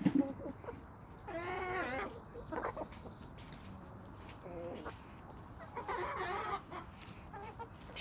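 Chickens calling: two drawn-out, wavering calls about a second and a half and six seconds in, with shorter clucks between them.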